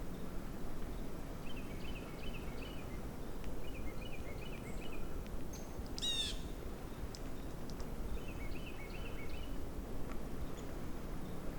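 Small songbirds calling, three runs of quick repeated chattering notes, with one loud, sharp falling call about six seconds in, over a steady low outdoor rumble.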